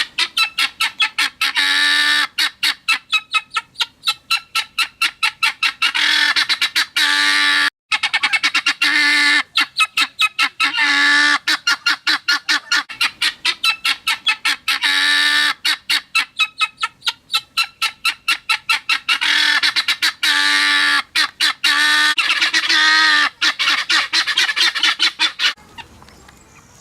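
Guinea fowl crying: a fast run of harsh, repeated squawks, several a second, broken now and then by longer drawn-out cries. It stops shortly before the end. This loud, insistent cry is typical of a guinea fowl on the alert or disturbed.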